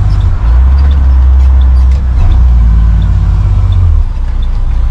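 Military truck's engine and road noise heard from inside the cab while driving: a loud, deep, steady drone that eases slightly and returns a few times.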